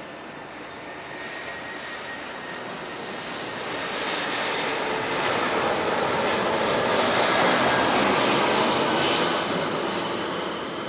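Four CFM56 turbofans of an Airbus A340-300 on final approach, a jet rush growing louder to a peak about seven seconds in and then fading as the airliner passes. A high whine rides on the rush at its loudest.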